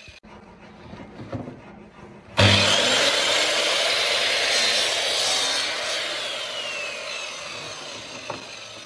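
A few light knocks, then about two seconds in a power tool starts working wood abruptly and loudly. It runs on, slowly getting quieter, with a faint falling whine partway through.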